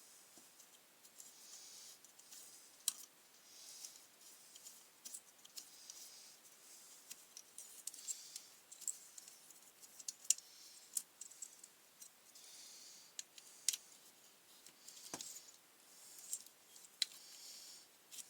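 Hand work on a petrol grass trimmer's ignition parts: irregular sharp clicks and taps of small tools and plastic parts, with soft scraping and rubbing between them.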